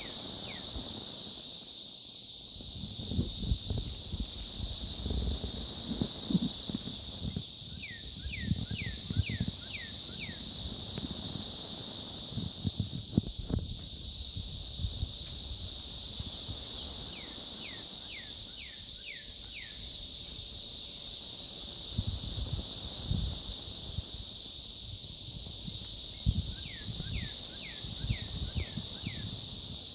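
A dense chorus of cicadas makes a loud, steady, high-pitched drone. About every nine seconds a run of six or seven quick downward-sliding chirps cuts in, and an uneven low rumble sits underneath.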